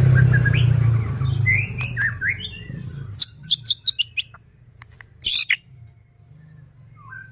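White-rumped shama (murai batu) singing in short bursts of quick whistled and chirped notes, mixed with sharp clicks and harsh rattling notes. A low hum is the loudest sound at first and fades out about three seconds in.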